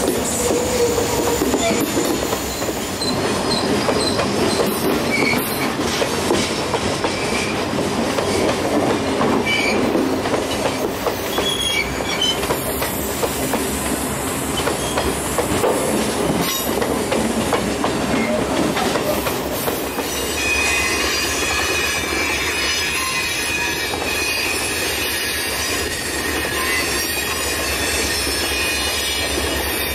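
Freight train of loaded hopper cars hauled by SD40-3 diesel locomotives rolling past, steel wheels squealing on the rails with clicking over rail joints. About twenty seconds in the sound turns steadier, with a continuous high squeal over a low hum.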